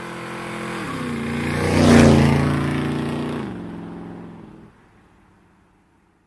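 A car engine passing by, growing louder to a peak about two seconds in, dropping in pitch as it goes, then fading away.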